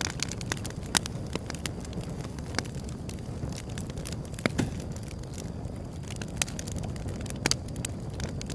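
Wood fire burning: a steady low rumble with scattered sharp crackles and pops, the loudest about a second in, midway through and near the end.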